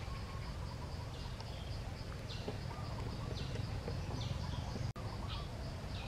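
Outdoor ambience: a bird gives a short, high, falling chirp about once a second over a steady low rumble. The sound cuts out for an instant a little before the end.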